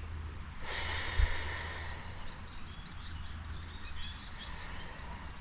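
Small birds chirping, short high calls repeated over a low steady background rumble, with a brief rustling noise about a second in.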